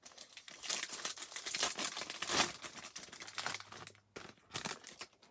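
Plastic wrapping crinkling and tearing, with a run of crackles, as a sealed trading-card box is opened.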